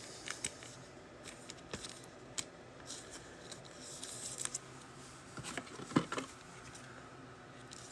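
Trading cards and their packaging being handled: faint scattered clicks and light rustling, with a sharper click about six seconds in.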